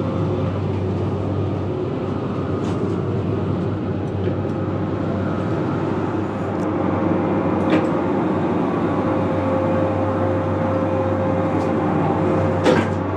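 Eurostar high-speed train running at speed, a steady rumble and hum heard from inside the carriage vestibule. There are a few light clicks, and a sharp knock near the end as the toilet door is handled.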